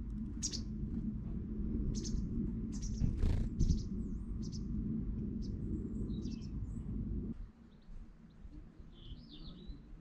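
Small garden birds chirping: short, high chirps every second or so, with a brief warbling call near the end. Under them runs a low steady rumble that cuts off suddenly about seven seconds in.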